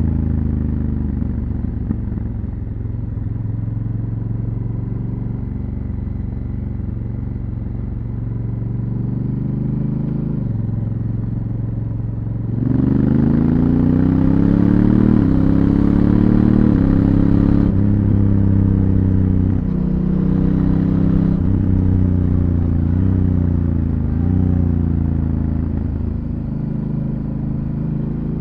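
Honda Africa Twin CRF1000L's parallel-twin engine through its stock exhaust, ridden on the road. It runs steadily and eases off in the first part. About halfway through it accelerates hard, the pitch climbing in steps as the DCT gearbox shifts up, with a rush of wind over it. It then settles back to a steady run.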